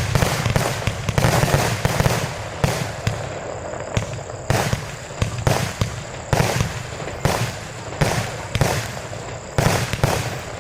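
A 110-shot compound fireworks cake firing: sharp bangs from its shots, about one to two a second, with a steady hiss between them.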